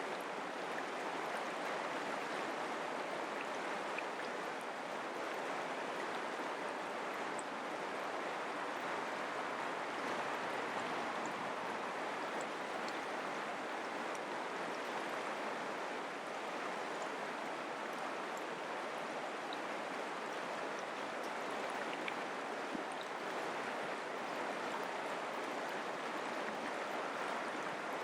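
Mountain creek flowing over rocks: a steady, even rush of running water.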